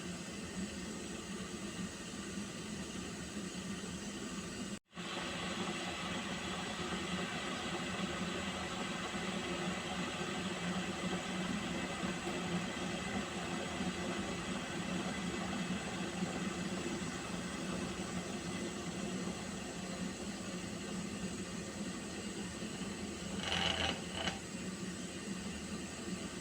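Pot of water heating on a stove: a steady hiss with a low hum underneath. The sound drops out for an instant about five seconds in, and there is a brief louder sound near the end.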